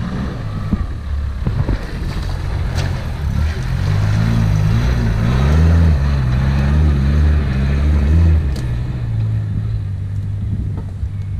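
Toyota 80 series LandCruiser engine driving through mud, its revs rising and falling for several seconds midway, then running steadier as it pulls away.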